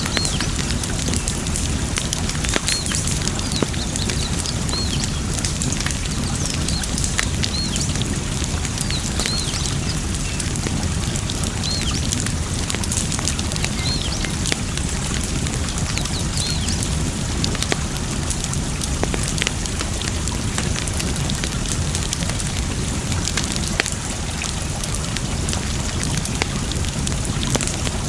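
Campfire wood crackling and popping with scattered sharp snaps, over a steady rush of water. Short high chirps recur through the first half or so.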